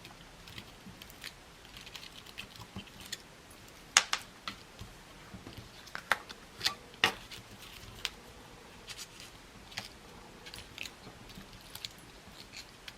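Scattered light taps, clicks and rustles of craft materials being handled and placed on a work surface, with the sharpest clicks about four seconds in and twice around six to seven seconds in.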